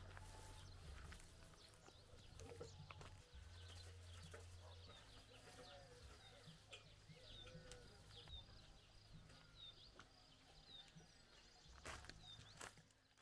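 Faint outdoor ambience with small birds chirping now and then, and a few light clicks.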